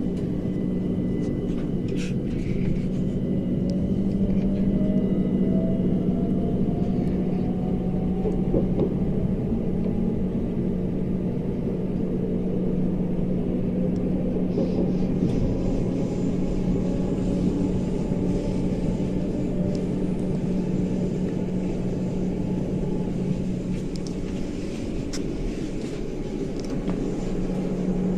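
Southern class 377 electric multiple unit heard from inside the carriage while running between stations: a steady rumble of wheels and running gear under a constant low hum, with a faint whine rising slowly in pitch over the first ten seconds or so as the train picks up speed.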